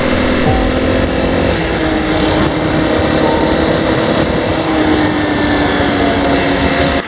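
Honda CRF250L single-cylinder four-stroke engine running at a steady cruise under way, with rushing wind noise. The engine note sinks slowly lower from about a second and a half in.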